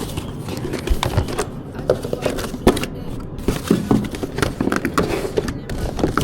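An irregular run of short knocks, taps and scrapes from things being handled.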